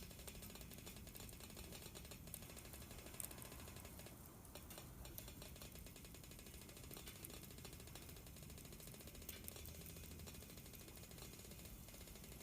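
Faint crackling of a small wood fire in a fire pit stand: scattered small ticks over a soft steady hiss.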